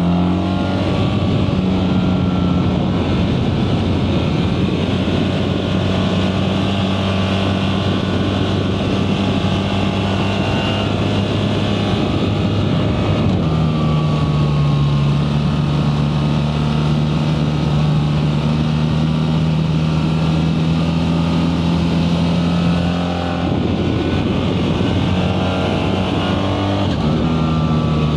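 BMW R 1300 GS boxer-twin engine running hard under load on the move, with rushing wind noise. The engine note holds steady, shifts pitch about halfway through, eases off briefly about 23 seconds in, then rises again as the bike accelerates near the end.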